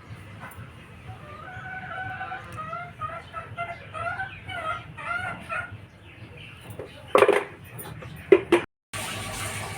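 A chicken clucking: a run of short calls rising and falling in pitch for several seconds, followed by two loud knocks.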